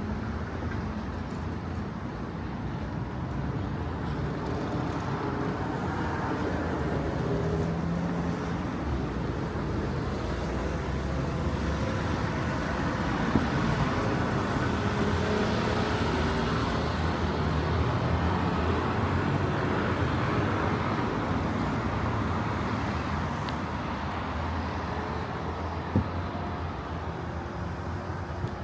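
City street traffic: steady road noise of passing vehicles, swelling to a peak about halfway through as traffic passes close, then easing off. A single sharp knock near the end.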